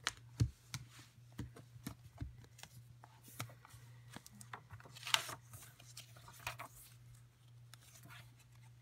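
Pens and journal paper being handled on a desk: scattered light taps and clicks with brief scratching and rustling, the sharpest about five seconds in, over a steady low hum.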